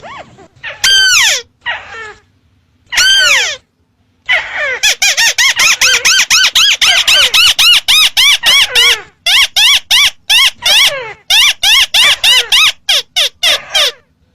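Crake lure call: a rapid series of sharp down-slurred notes, a few spaced ones at first, then from about four seconds in a fast run of four or five a second with brief breaks.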